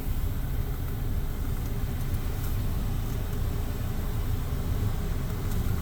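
Car engine idling, a steady low rumble with a faint hiss above it.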